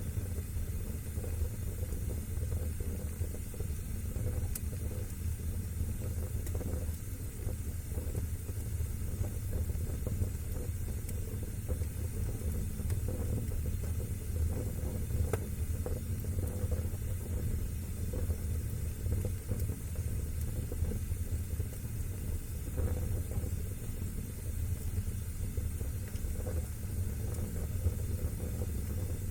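Wood fire burning in a fireplace: a steady low rumble of flame with a few faint crackles scattered through it.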